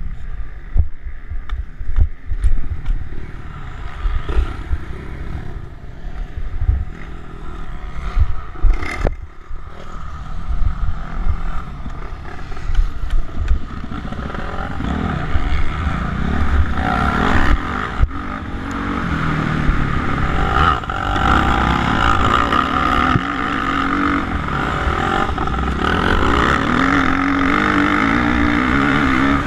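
Suzuki RM-Z450 motocross bike's four-stroke single-cylinder engine running hard, its pitch rising and falling with the throttle. Heavy wind rumble and knocks on the microphone fill the first half. In the second half the engine note comes through louder and steadier.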